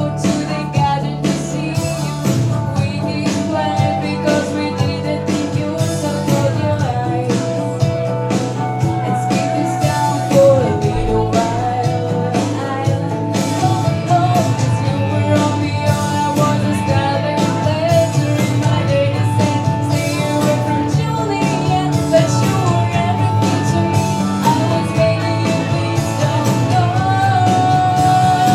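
Live singing of a country song over instrumental backing with a steady beat.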